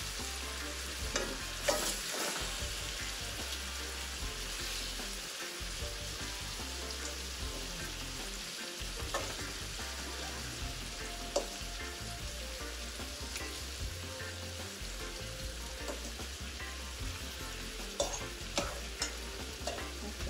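Chicken pieces sizzling as they fry in hot oil and browned curry powder in a pot, a steady sizzle with a few light clicks and knocks as pieces are set in.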